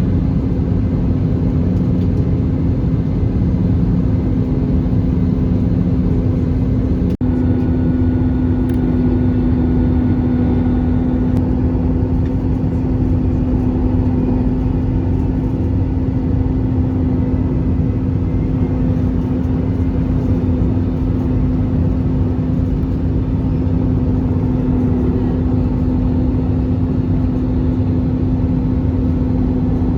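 Airbus A320-200 cabin noise during the final approach and landing: a steady loud rumble of engines and airflow with a constant droning hum. There is a brief break about seven seconds in.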